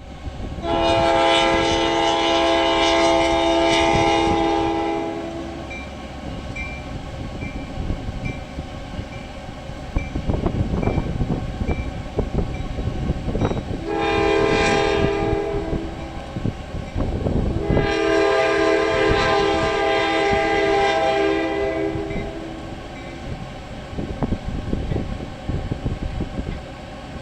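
Train horn sounding a chord in three blasts: a long one near the start, a short one about halfway, and another long one after it. Between blasts the train's wheels rumble and clatter on the rails.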